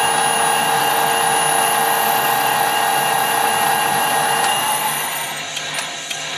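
Metal lathe running off a variable-frequency drive during a screw-cutting pass, giving a steady high electric whine with several pitched tones. About five seconds in the whine fades and its highest tone drops in pitch as the motor ramps down.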